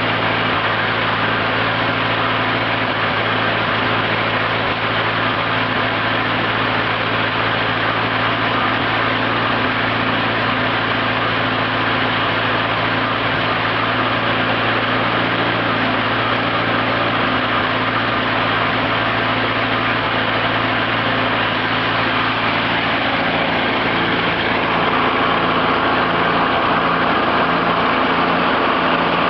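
Ford Model A truck's four-cylinder flathead engine idling steadily, left running to see whether it overheats again; the sound gets slightly louder about 25 seconds in. Electrical interference from the ignition is picked up by the camera along with it.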